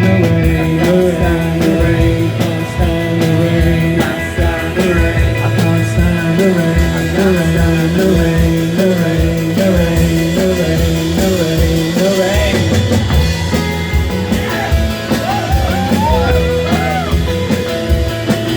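Live rock band playing a passage with no clear words: a repeating riff of sliding notes, joined after about fourteen seconds by a higher melodic line with bent notes.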